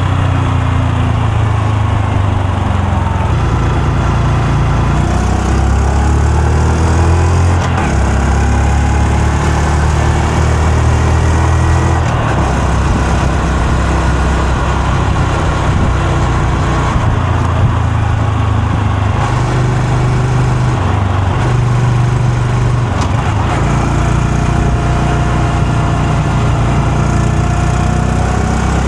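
Honda Super Cub C125's single-cylinder exhaust running continuously, its note stepping up and down every few seconds with throttle changes while riding.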